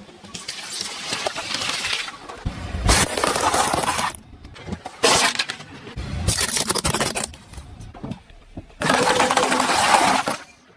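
Crunching and cracking of things being crushed under a car's tyres, heard as about five separate short bursts with abrupt cuts between them. The longest and loudest comes near the end.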